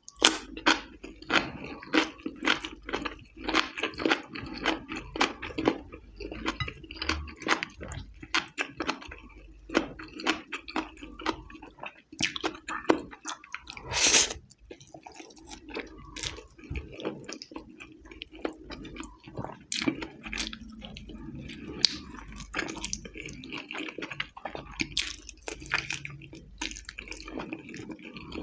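Close-miked eating sounds: crisp crunching of fresh cucumber in the first few seconds, then wet, sticky chewing of spiced ghee rice and chicken eaten by hand, with a loud burst about halfway through as a handful of rice goes into the mouth.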